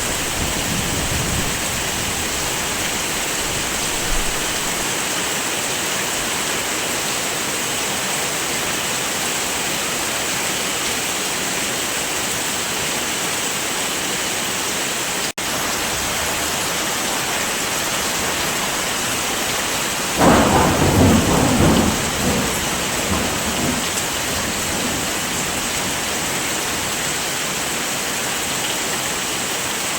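Steady heavy rain, with a low roll of thunder dying away at the start and a louder rumble of thunder about two-thirds of the way through. The rain cuts out for an instant about halfway.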